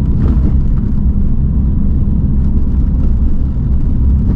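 Car moving along a road, heard from inside the cabin: a steady low rumble of engine and tyres.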